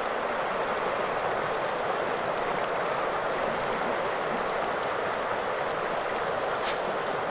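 Steady rushing of a river's flowing water, even and unbroken, with a few faint sharp ticks and a brief brighter splash near the end.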